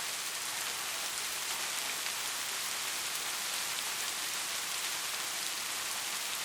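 Rain falling steadily: an even hiss of dense rainfall, with fine drop patter and no thunder.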